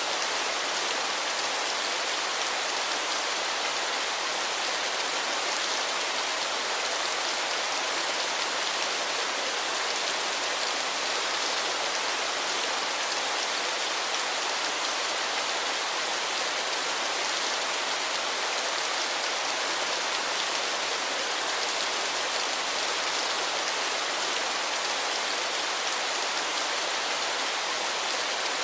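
Waterfall: a steady, unbroken hiss of falling and splashing water, mostly high and bright with little deep rumble.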